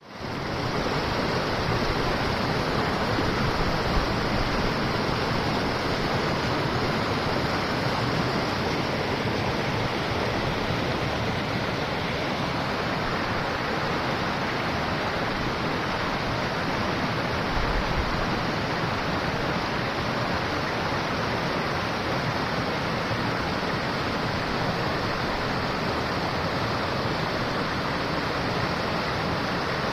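River water rushing steadily, a continuous even sound of a fast-flowing stream or rapids.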